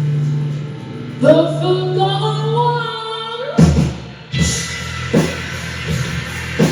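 Live band music. A steady low drone carries a wavering, gliding melodic line, and then regular drum beats come in a little past halfway.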